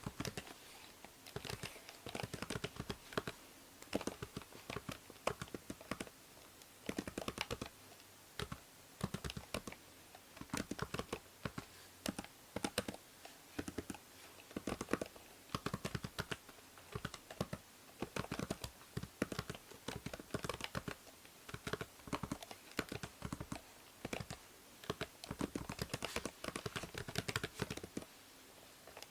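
Typing on a computer keyboard: irregular runs of quick key clicks broken by brief pauses, over a faint steady hiss from the binaural microphone.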